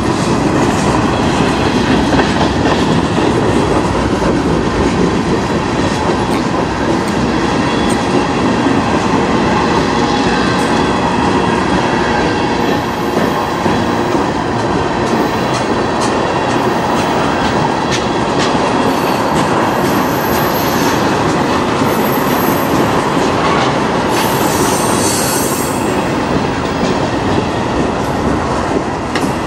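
Freight train cars, covered hoppers and tank cars, rolling past close by: steady noise of steel wheels on rail with frequent clicks over the rail joints and brief high wheel squeals now and then.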